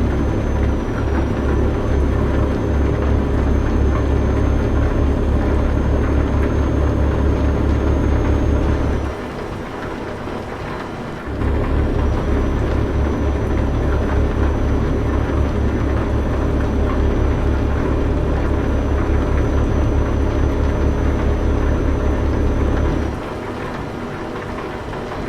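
Truck engine running with a fast low pulsing rumble and a thin high whine over a steady hiss. The engine sound drops away abruptly about nine seconds in, returns a couple of seconds later, and drops away again near the end.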